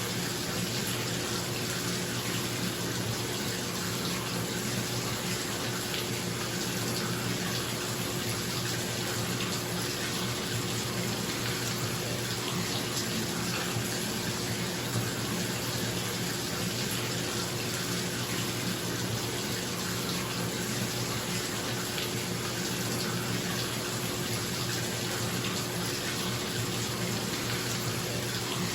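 Bathtub tap running steadily into the tub, a constant rush of water, with a bathroom exhaust fan humming underneath.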